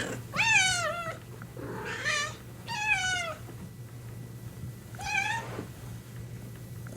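Domestic cat meowing four times, each meow rising then falling in pitch; the first three come close together and the fourth follows after a pause of about a second and a half.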